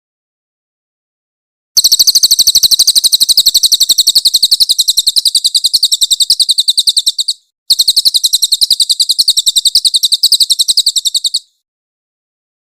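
Crested jay (cililin) calling in a long, loud rattle of very rapid, high-pitched notes. It comes in two runs of about five and four seconds, with a brief break between them.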